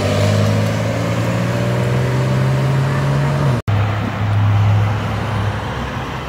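Car engine pulling away, its low note creeping up in pitch for a few seconds. After an abrupt break a little over halfway, an engine holds a steady low note, then gives way to road noise near the end.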